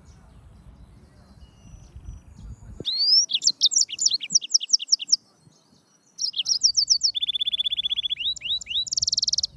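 Yellow-fronted canary singing in two bursts of quick, high, down-slurred notes with a second's pause between them; the second burst runs into a fast, even trill and ends on a short buzzy note. A faint low rumble comes before the song.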